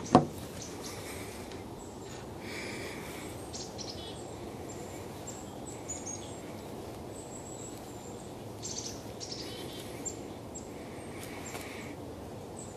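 Birds chirping in short high calls over a steady background noise, with one sharp click right at the start.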